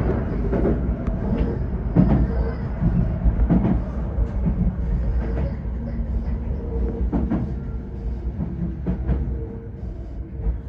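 Tokyo Metro 05 series electric train running on the rails, with a steady rumble and irregular clicks of the wheels over rail joints. A steady hum appears about halfway through, and the overall noise drops gradually toward the end.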